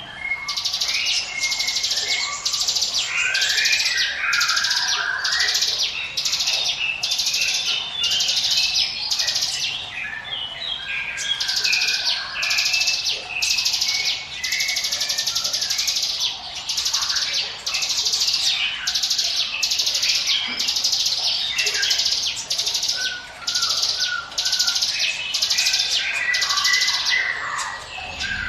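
Ciblek gunung, a mountain prinia, singing its 'ngiwit wit' song: fast, buzzy high notes repeated about twice a second, mixed with lower chirps and hardly a pause.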